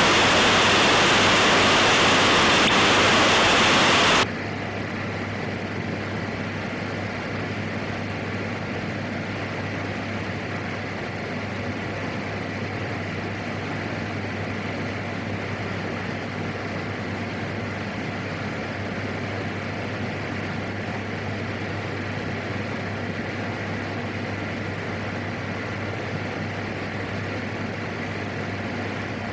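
Radio hiss that cuts off suddenly about four seconds in, leaving the steady drone of the PAC 750XL's single turboprop engine with a constant low hum, heard through the aircraft's radio and intercom audio feed.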